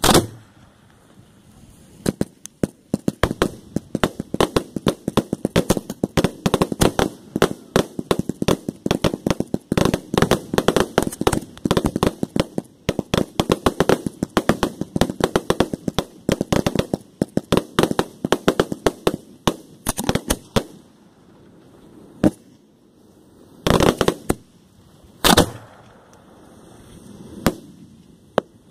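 Aerial fireworks exploding at close range. A sharp bang right at the start is followed by a dense run of cracks and reports, many a second, for about twenty seconds. Near the end this thins out to a few separate booms.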